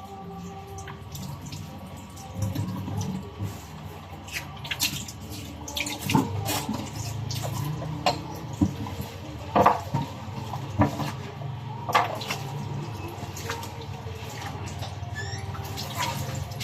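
Water running at a sink, with a steady low rush and several sharp clinks and knocks scattered through it.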